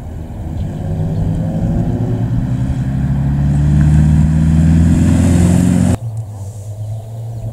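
Opel GT rally car's four-cylinder engine pulling hard past, its pitch climbing as it accelerates and then holding loud, until it cuts off abruptly about six seconds in. A fainter steady low hum follows.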